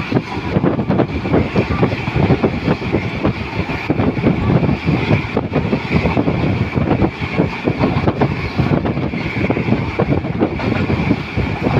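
Passenger train running, a steady loud rumble with wind buffeting the microphone.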